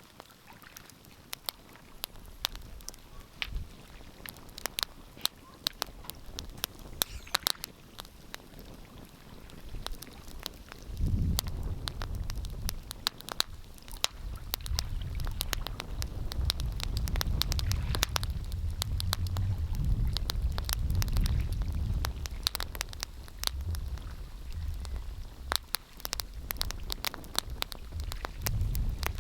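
Wood fire crackling with frequent sharp pops, joined by a low rumble from about eleven seconds in that eases near the end.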